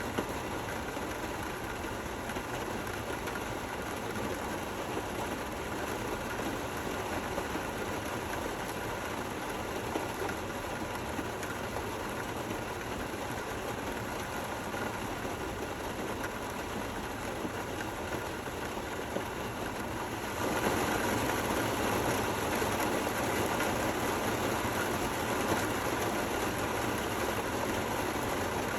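Steady rain falling, an even hiss of drops that grows louder about twenty seconds in.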